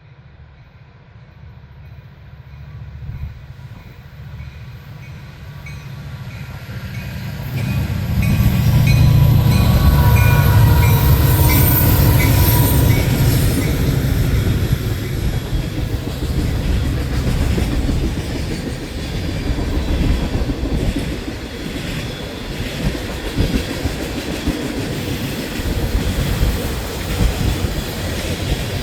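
A CN freight train's diesel locomotives approach and pass, their low rumble growing to its loudest about eight seconds in. After that the long train of freight cars rolls by with a steady, irregular clatter of wheels over the rails.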